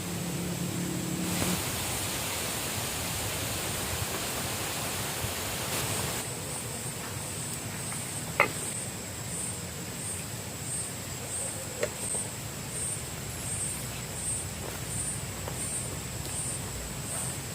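Steady rushing outdoor noise with no speech, joined after a few seconds by a faint high pulsing call about one and a half times a second, and two sharp clicks.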